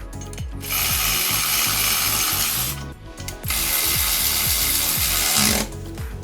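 A workshop power tool runs in two bursts of about two seconds each, a loud high-pitched hissing whir, over background music with a steady beat.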